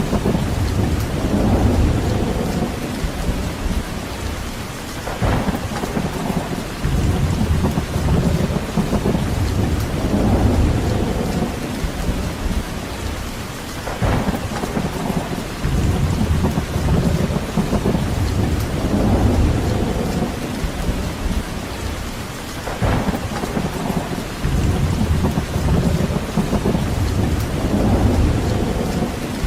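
Steady rain falling, with deep rumbling swells that rise and fall every few seconds, like wind gusts or distant thunder rolling beneath the rain.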